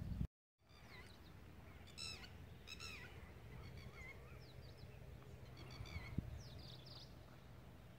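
A brief dropout to silence just after the start, then faint birds calling: scattered short chirps and whistles, with two stronger, richer calls about two and three seconds in, over low steady background noise.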